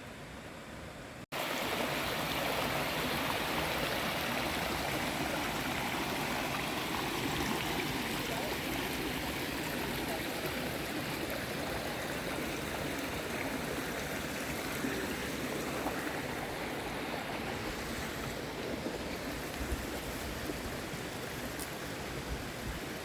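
Steady rush of flowing water, beginning abruptly about a second in after a short stretch of quieter outdoor ambience.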